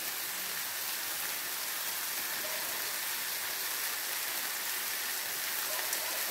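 Baingan bharta (mashed roasted eggplant masala) sizzling steadily in oil in a stainless steel frying pan. The oil has separated at the sides, the sign that the masala is cooked through.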